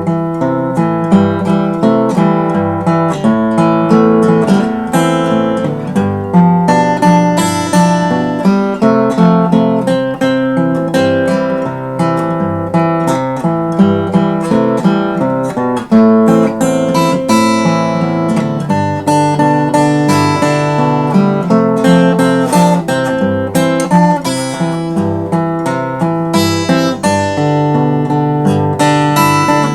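Acoustic guitar played fingerstyle in Travis picking: a steady alternating thumb bass with plucked melody notes above it.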